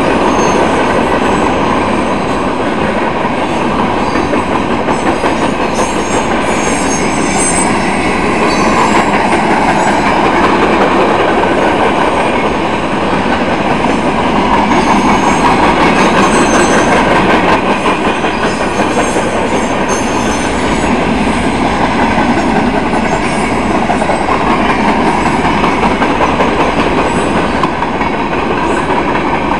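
Freight train cars rolling past at close range: a steady, loud rumble and clatter of wheels on the rails, with faint high squeals from the wheels now and then.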